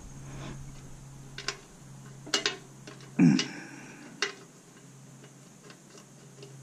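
Hand tools working on a stainless steel appliance: a socket ratchet clicking and metal clinking, in scattered sharp ticks with a few louder clanks about two and three seconds in.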